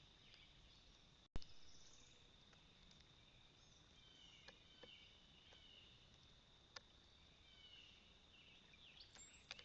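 Faint outdoor ambience: a steady high insect drone with scattered soft bird chirps and a few light ticks, and a single sharp click a little over a second in.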